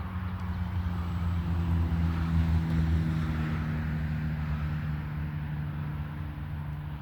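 Electric motor and propeller of a Hobbyzone Carbon Cub S2 RC plane in flight, a steady droning hum that grows louder to a peak about two and a half seconds in, then eases off as the plane moves away.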